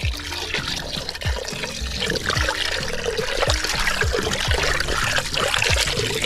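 Water pouring and splashing steadily, over background music with a regular thumping beat about twice a second.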